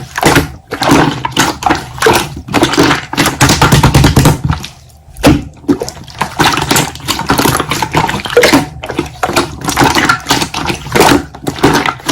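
Hands squeezing and kneading slime: a quick, irregular run of wet clicks, pops and squelches, with a few duller thuds as it is pressed and folded.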